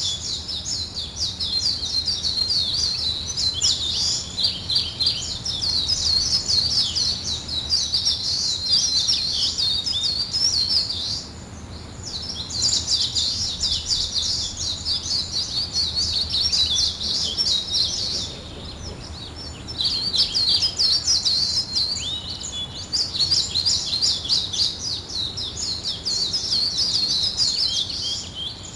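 A bird singing a fast, high twittering song of rapid chirps in long bouts, breaking off briefly twice.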